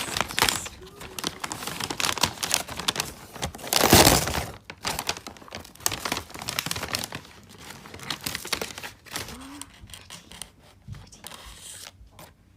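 Crinkling and crumpling noise, a dense irregular crackle that is loudest about four seconds in and stops abruptly at the end.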